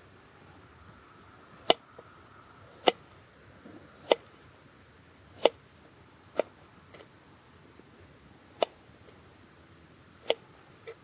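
Sharp, separate chopping knocks, about eight over ten seconds at an uneven pace, with the last two close together.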